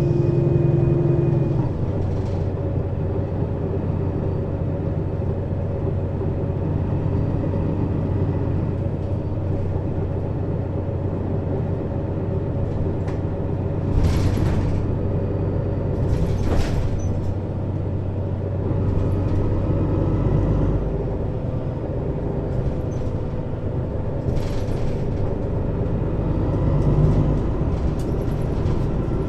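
Mercedes-Benz Citaro city bus diesel engine running steadily under way, heard on board through a ZF Ecomat 6HP-592 C automatic drivetrain. The engine note changes about two seconds in and again about two-thirds through, and short air hisses cut in three times.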